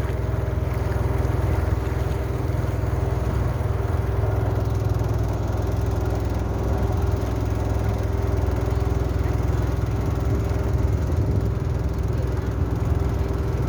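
Motorboat engine running at a steady speed, a constant low hum with a few level tones and no change in pitch.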